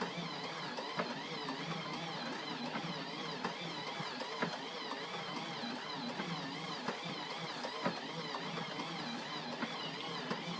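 DC-3's starboard radial engine turning over with a steady mechanical clatter and scattered clicks, on its first turnover since 1992 after years left outdoors.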